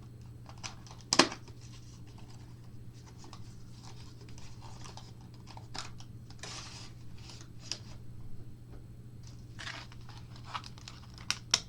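Small plastic model and its packaging being handled and unpacked: scattered rustles, crinkles and light clicks, with one sharp click about a second in, over a steady low hum.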